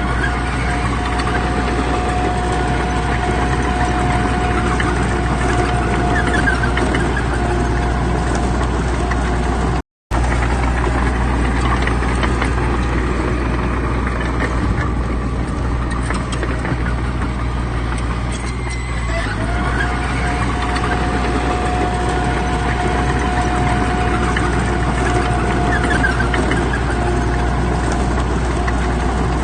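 Heavy diesel earthmoving machinery running steadily under load: a loud, low engine drone with a steady whine above it. The sound cuts out for a moment about ten seconds in, then carries on.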